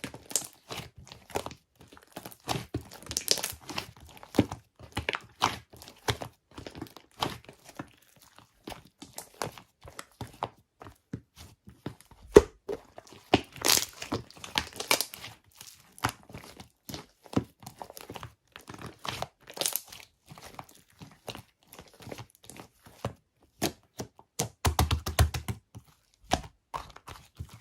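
Air-filled pearl slime being squeezed and pressed close to the microphone: a steady run of irregular crackles, clicks and small pops as trapped air bursts. There is a denser spell of pops near the end.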